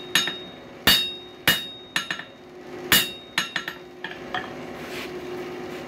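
Hand hammer striking the coil-spring steel screwdriver blank, each blow with a short metallic ring: three heavy strikes among several lighter taps, ending about four seconds in, over a steady hum.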